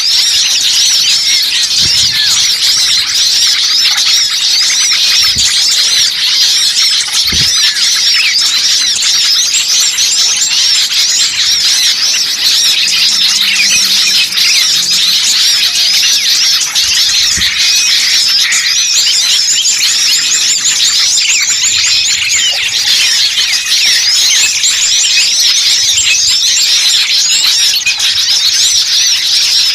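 Dense chorus of many small songbirds chirping and twittering fast and high-pitched, overlapping without pause: a bird-lure (pikat) recording of noisy small birds, played to draw in wild birds.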